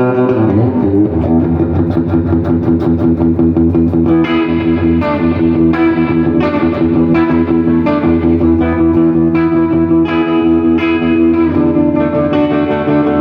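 Electric guitar played through a 1968 Fender Super Reverb tube amp, with sustained chords ringing. From about four seconds in, picked or strummed attacks come about twice a second.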